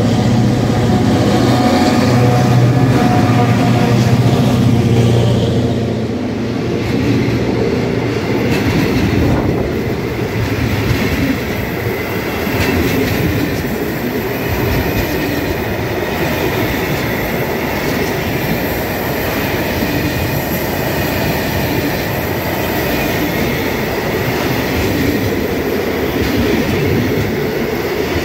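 A train passing close by. For the first few seconds there is a strong low engine hum, which then gives way to steady rolling noise of the cars, with rhythmic wheel clicks over the rail joints.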